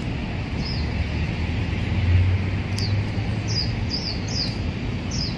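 A small bird giving short, high, falling chirps, about six of them, most in the second half, over a steady low rumble of city traffic.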